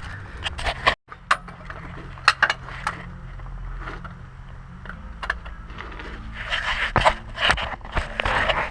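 Hand tools and a socket clinking, knocking and scraping on metal while working at a transmission drain plug, with a louder stretch of scraping and rattling near the end. A steady low hum runs underneath.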